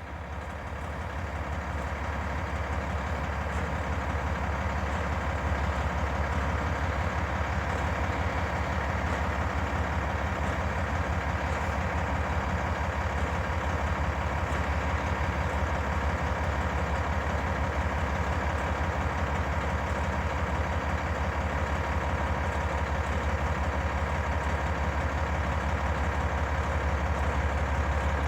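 Cummins ISM inline-six diesel of an International 7600 dump truck idling steadily while the dump bed is lowered, getting louder over the first few seconds and then holding even.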